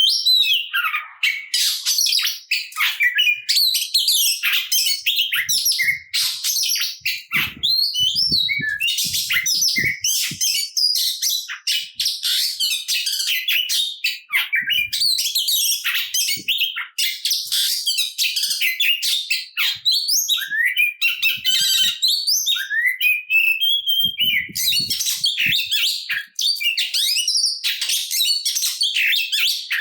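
Oriental magpie-robin (kacer) singing without pause: a fast, varied stream of whistles, chatters and rising and falling phrases, packed with borrowed song material.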